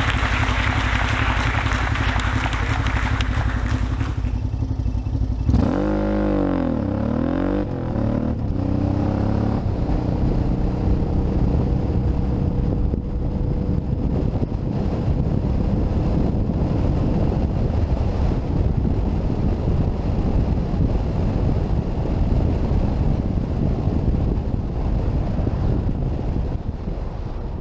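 Motorcycle on the move: the engine's pitch rises and falls a few times as it revs through the gears about six to nine seconds in, with a steady rush of wind and road noise on the microphone throughout.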